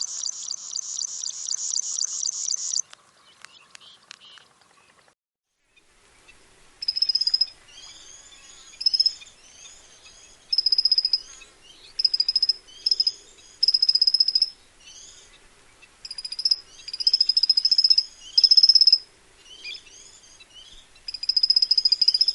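Plain prinia singing: a rapid, even run of repeated high buzzy notes for the first few seconds. After a short gap, about seven seconds in, comes a series of separate bursts of high chirping phrases, many with a held high note.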